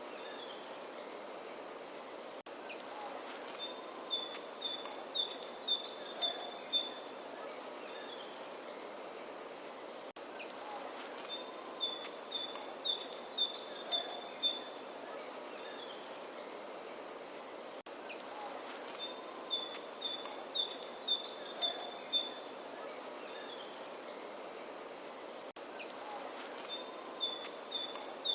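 Songbird singing the same phrase over and over, about every eight seconds: two high notes sliding downward, then a quick run of short repeated chirps alternating between two pitches. A faint steady outdoor hiss lies underneath.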